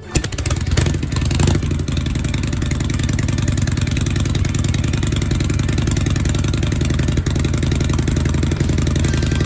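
Harley-Davidson Shovelhead air-cooled V-twin motorcycle engine running steadily at idle after being kick-started, a little louder in the first second or so.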